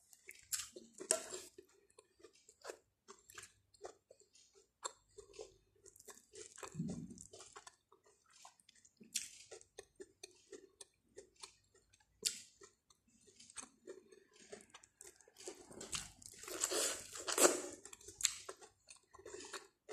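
A person biting kernels off a cob of boiled corn and chewing them: short scattered crunches and wet mouth clicks, coming thicker a little before the end.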